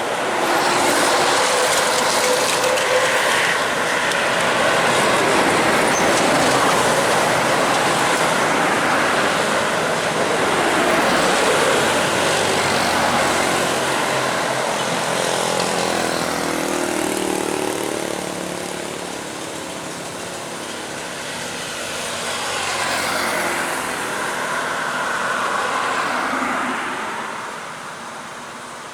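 Heavy road vehicles driving past close by: loud tyre and engine noise that swells and fades. An engine note climbs and falls in pitch around the middle.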